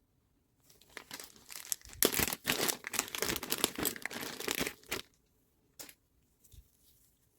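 Crinkling and rustling handling noise that builds about a second in, is loudest for about three seconds, and stops suddenly, followed by a single click.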